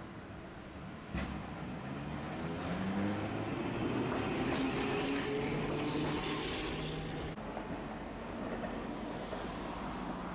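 Tosaden streetcar running on rails, its motor and gear whine rising in pitch as the tram picks up speed, with a clunk about a second in.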